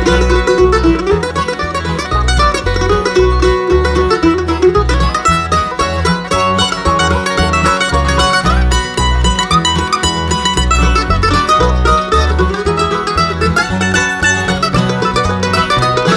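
Bluegrass band playing an instrumental break between verses on acoustic string instruments, with a steady bass pulse under a picked lead melody.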